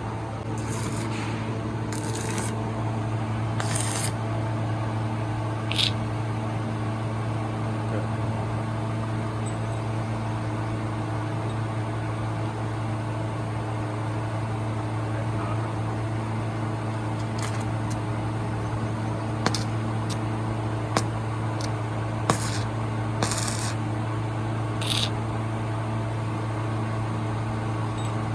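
Steady machine hum with a low drone and several fixed tones above it. Short hissing bursts come through it about a second in, at two, four and six seconds, and again near the end, with a few sharp clicks in between.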